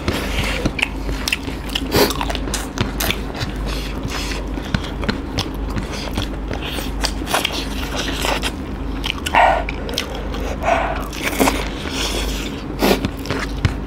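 Close-miked eating: two people chewing and smacking on chicken curry and rice eaten by hand, with many irregular sharp mouth clicks, over a steady low hum.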